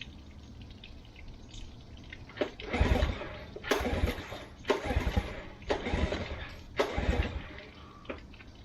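Nissan Marine outboard being pull-started: about five hard pulls, roughly one a second, each a rasping turn-over of the engine that never catches. The spark has been found good, and the owners think fuel is the trouble in an engine that sat unused for about five years.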